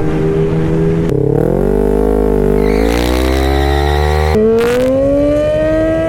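2006 Honda CBR600's inline-four engine revving under acceleration. Its pitch climbs in steps with drops between them, as the bike works through the gears. It jumps up again and settles into a steady high-revving pitch near the end.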